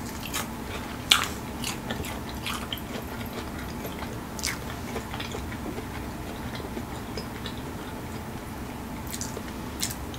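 Close-up chewing and biting of air-fried chicken wings crusted in crushed Flamin' Hot Cheetos, with scattered crunches and wet mouth clicks. The sharpest crunch comes about a second in.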